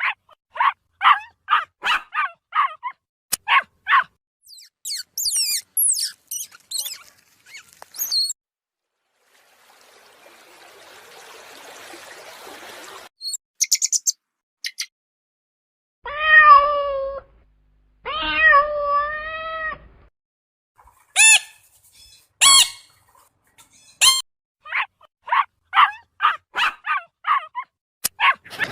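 A run of separate animal calls: quick series of short high cries, a few very high chirps, a stretch of soft hiss, and two long drawn-out cat meows a little past the middle.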